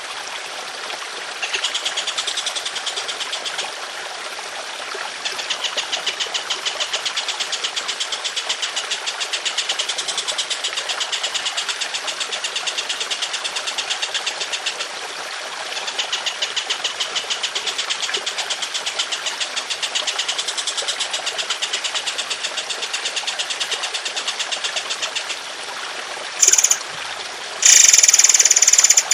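Songbird giving long, rough, rapidly pulsed trills in three runs, the longest about ten seconds, over trickling water, then a few short louder high calls near the end.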